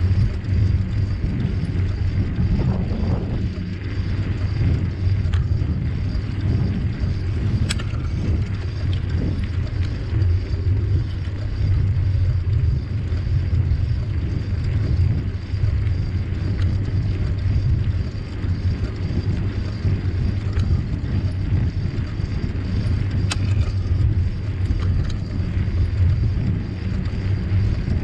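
Riding noise from a moving bicycle: a steady low rumble of wind on the microphone and tyres rolling, with two sharp clicks, one about eight seconds in and one near the end.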